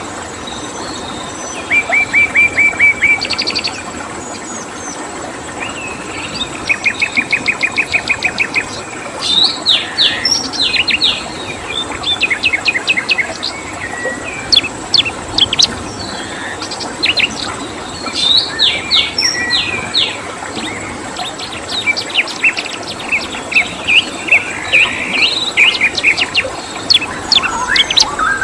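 Songbirds chirping and trilling, with quick runs of repeated notes, some about eight a second, over a steady background hiss and a faint high insect-like tone.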